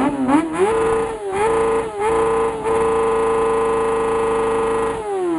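Motorcycle engine revved hard for a loudness measurement: a few quick rising and falling blips, then held at high revs at one steady pitch for about two and a half seconds, and let drop back near the end.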